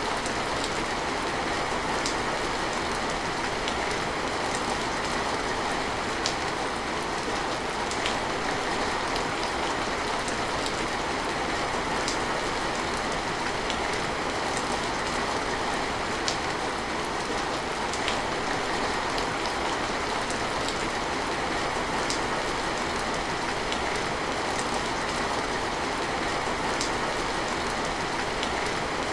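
Steady rain falling, an even hiss with scattered drops ticking on nearby surfaces.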